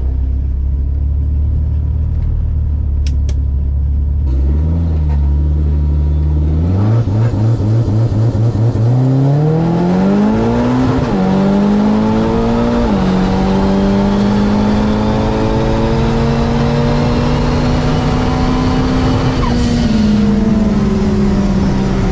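Drag-racing car engine sitting at a low, steady idle with a brief rev, then launching about seven seconds in and accelerating hard down the strip. The pitch climbs, dips twice at gear changes, holds high for several seconds, then falls as the throttle is lifted near the end.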